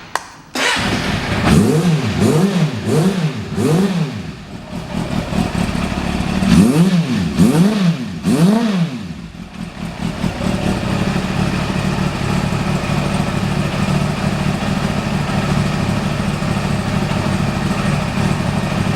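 Honda CB400 Super Four VTEC's inline-four engine through an aftermarket custom exhaust, revved in two runs of about four quick throttle blips each, then settling to a steady idle for the last nine seconds or so.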